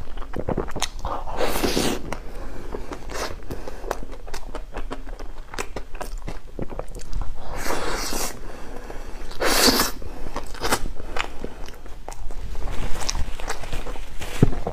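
Close-miked chewing of soft chocolate bread: steady wet mouth clicks and lip smacks, with a few louder bursts of mouth noise, one of them as the fingers are sucked clean around the middle.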